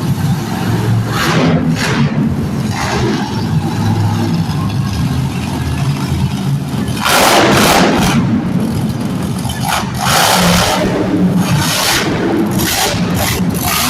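Monster truck engines running loudly and revving in surges, the loudest about seven and ten seconds in.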